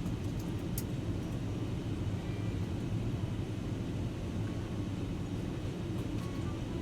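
Steady low rumble of airliner cabin noise from engines and airflow, with a few faint clicks about a second in.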